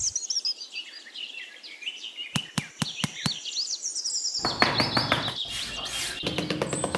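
Birds chirping, with a few sharp knocks about two and a half to three seconds in. Then, about four and a half seconds in, background music with a quick regular beat starts over the birdsong.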